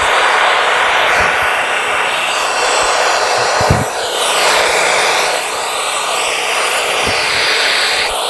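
Wood-Mizer LT40 Wide band sawmill running, its band blade cutting through a yellow pine cant with a steady loud whoosh over the engine's hum. A few short knocks come through, about a second in, near the middle and near the end.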